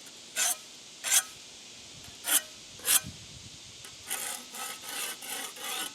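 A hand tool scraping over wet concrete: four separate strokes in the first three seconds, then a quicker run of short scrapes near the end.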